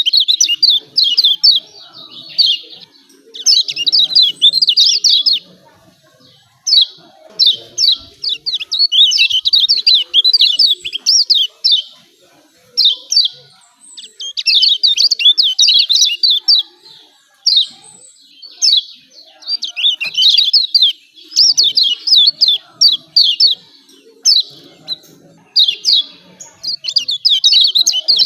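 Kecial kuning (Lombok white-eye) giving rapid, high-pitched 'ciak ciak' chattering calls in repeated bursts of one to two seconds with short pauses between. This is an excited call played as a lure recording to provoke quiet caged birds into singing.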